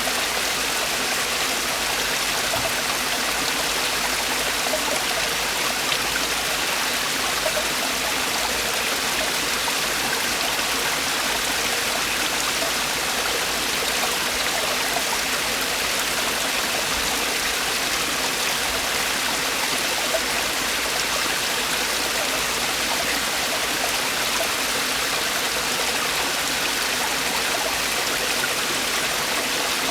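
Mountain valley stream with water falling over rocks, a steady rushing splash that holds even throughout.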